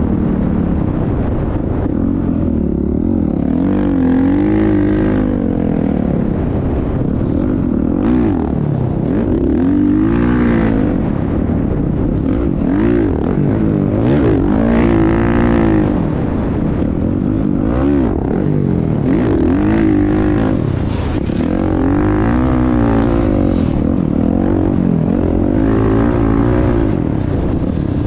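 Motocross dirt bike engines revving, the pitch rising and falling again and again every two to three seconds.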